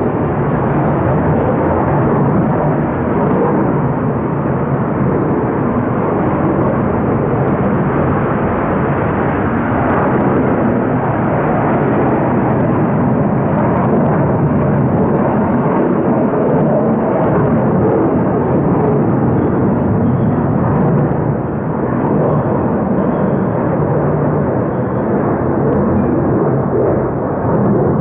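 Fighter jet taking off, a loud, steady jet roar that holds for the whole stretch.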